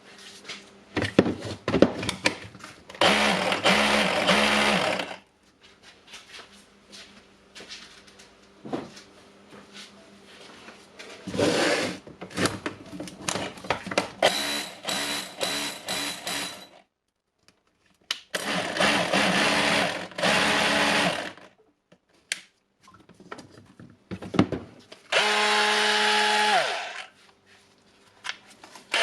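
Bosch 18V cordless rotary hammer drill test-run in several bursts of a few seconds each, the motor spinning up on the trigger and winding down with a falling pitch when it is released, with handling clicks between runs. It is running properly now that the pulled, burnt wiring connection that made it cut in and out has been rejoined.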